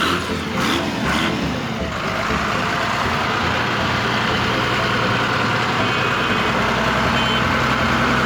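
Toy mini tractor running with a steady mechanical drone, with a few short knocks in the first two seconds.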